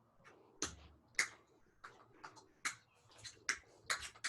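Tap shoes striking a hard floor: about a dozen sharp, uneven taps as a dancer steps through a tap routine.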